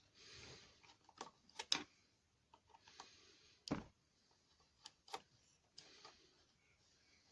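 Irregular light clicks and knocks of hand tools on the metal of a hedge trimmer's gearbox as its bottom plate is being worked loose, with one heavier knock about halfway through. A short rustle comes at the start.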